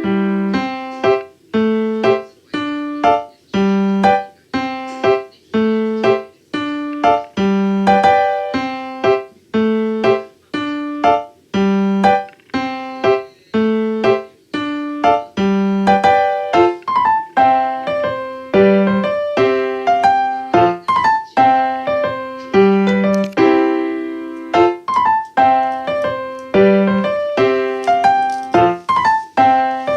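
Background piano music: a steady run of short, struck notes in an even rhythm.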